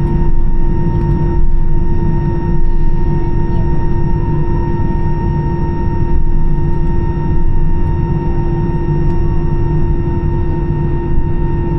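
Airbus A320's CFM56 engines at taxi idle, heard from inside the cabin over the wing: a steady low rumble with a constant whine on top.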